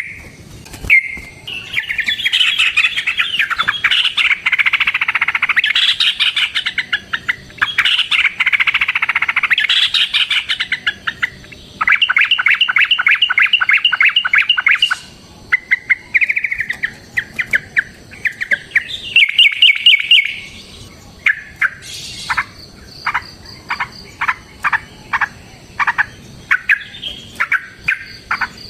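Yellow-vented bulbul (trucuk) song: loud, dense, bubbling chatter, then a fast even run of notes partway through, then a string of separate sharp call notes toward the end. This is the long, rapid 'ropel' song used as a lure to get other bulbuls singing.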